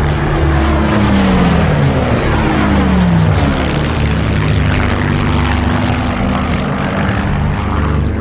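Spitfire TR9's Merlin V12 aero engine and propeller passing low and fast, its pitch falling as it goes by in the first three seconds, then a steady engine drone.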